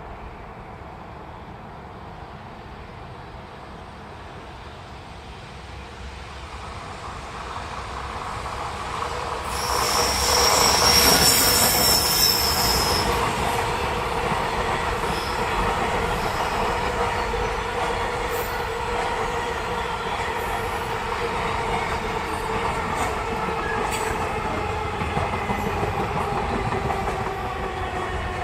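A train approaching and passing, growing louder over the first ten seconds, with a high wheel squeal lasting a few seconds as it comes closest. It then runs by steadily with a rumble and a hum, and a few sharp wheel clicks come near the end.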